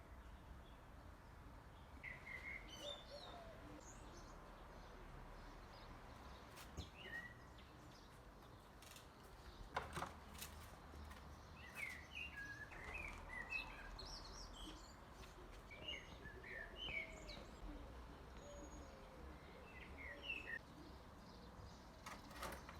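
Small songbirds chirping and twittering faintly, in short scattered phrases that come thickest in the second half, over a low steady background hum. One sharp click sounds about ten seconds in.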